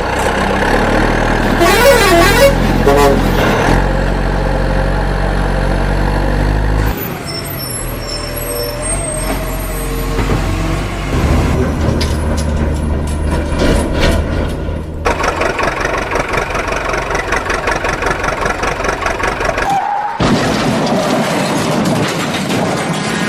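Truck engine sounds with horn honks, a wavering tone about two seconds in, the sound changing abruptly several times.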